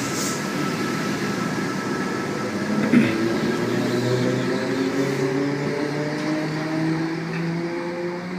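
V-set intercity electric train pulling away from the platform: a steady rumble with several motor tones rising slowly in pitch as it accelerates. There is a single sharp knock about three seconds in.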